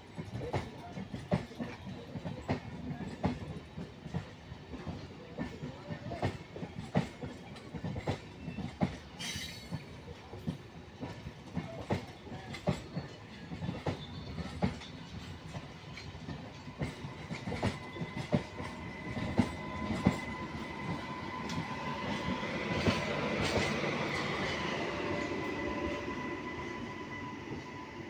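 MEMU electric multiple unit train running past, its wheels clattering over rail joints in a steady run of sharp clicks. In the second half a steady high whine joins and the sound swells and then fades.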